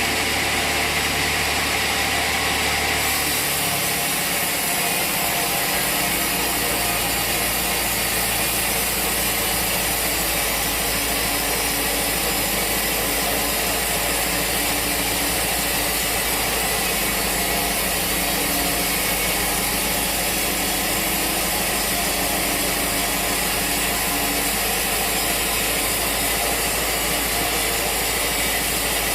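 Sawmill machinery running with a steady mechanical noise, changing in character about three seconds in.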